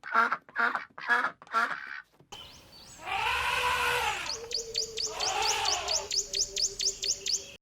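A fast run of duck-like quacking calls. After a cut, there are two long calls that rise and fall, and a quick series of high bird chirps, about four a second, over a low steady tone. All of it cuts off suddenly at the end.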